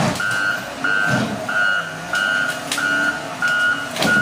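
Work truck's reversing alarm beeping steadily, about three beeps every two seconds, over the low running of the truck's engine. A couple of sharp knocks, one about two-thirds through and one near the end.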